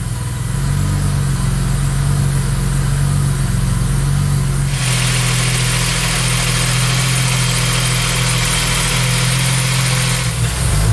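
BMW E28 528i's straight-six engine idling steadily. From about five seconds in, a brighter hiss and whir of the engine bay rises over the low engine note, then drops back near the end.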